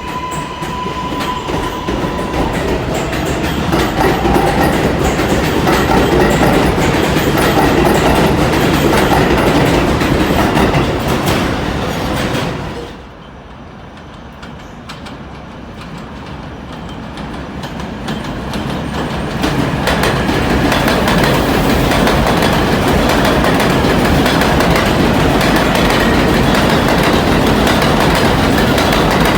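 New York City subway train running between stations, heard from inside the car: a loud, steady rumble and rattle of wheels on rail, with a high whine in the first couple of seconds. The sound drops sharply about 13 seconds in, then builds back up over the next several seconds.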